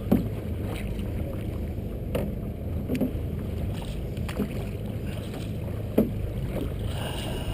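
Canoe being paddled through choppy water: a steady low rush of wind and water, broken by about five sharp slaps at irregular intervals.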